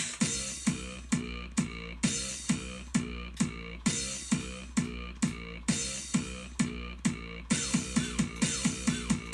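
Electronic music: a looping beat of punchy drum hits that drop in pitch, about two a second, with squeaky chirps over it; the beat turns faster and busier about three-quarters of the way through.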